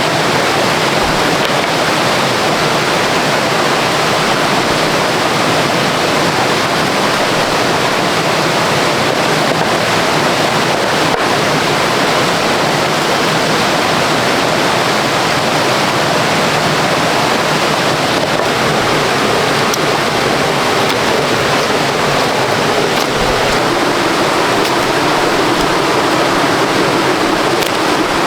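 Rushing water of waterfall rapids, loud and steady throughout.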